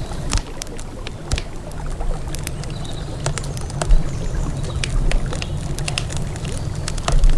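Wood campfire crackling, with frequent irregular sharp pops and snaps, over a steady low rumble.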